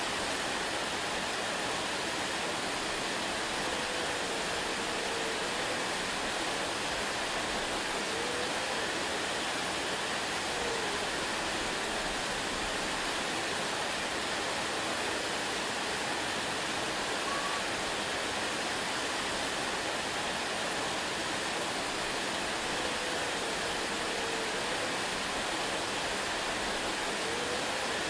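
Waterfall rushing steadily, an even hiss of falling water, with a few faint short rising-and-falling tones now and then.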